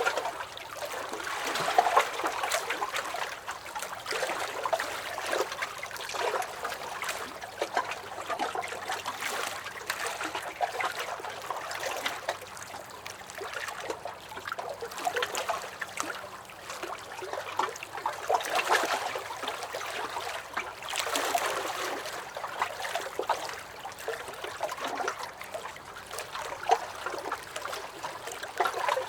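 Small lake waves lapping and sloshing against a dock, with little splashes and gurgles that swell and ease every few seconds.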